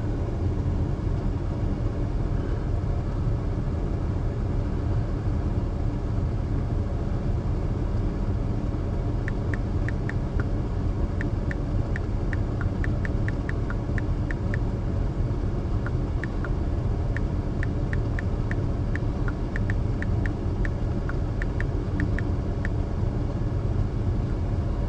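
Vehicle idling while parked, a steady low rumble inside the cab. From about nine seconds in comes a run of short, irregular light clicks for some thirteen seconds, like typing on a phone's keyboard.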